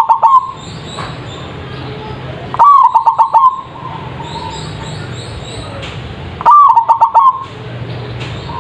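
Zebra dove (perkutut) singing its loud cooing phrase, a coo followed by a quick run of short notes, repeated about every four seconds. Faint high chirping of other small birds and a low hum run underneath.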